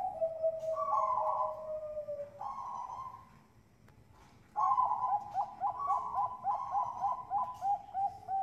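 Bangkok perkutut (zebra dove) singing: a few drawn-out coos, the last one sliding down in pitch, a short pause about three seconds in, then a fast run of looping coo notes, about three a second.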